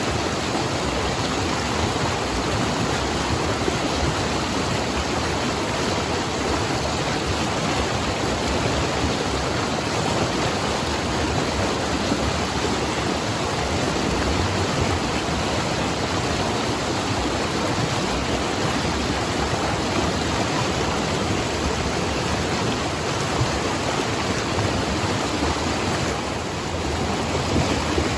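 River water rushing steadily through heavy pocket water.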